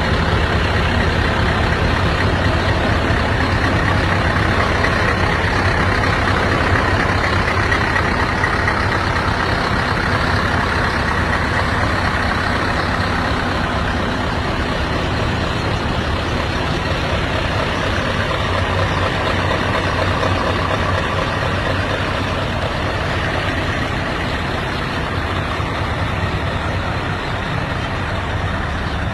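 Scania V8 diesel truck engines running steadily with a deep low drone, the sound easing off a little over the second half.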